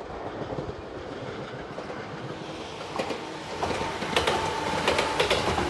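JR 213-series electric train passing close by, growing louder as it approaches. From about three seconds in, its wheels clatter over the rail joints in a quick run of sharp clicks.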